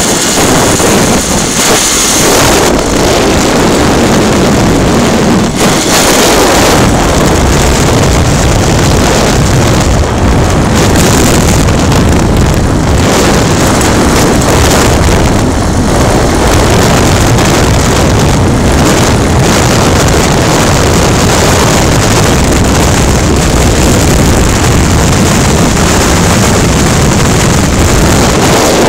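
Motorcycle running steadily on the road, with wind rushing over the microphone.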